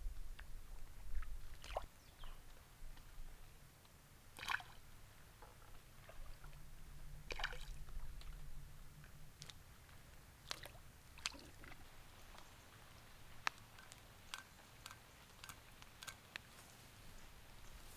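Faint scattered clicks and light knocks of things being handled, a couple of them ringing briefly like a light clink.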